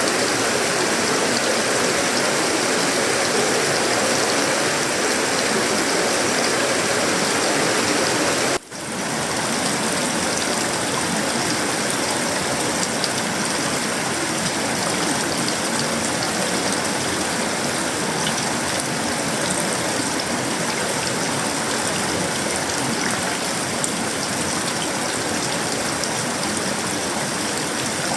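Heavy tropical rain falling steadily on sheet-metal roofing, wood and leaves, a dense even hiss. About nine seconds in the level drops out for a split second, then returns.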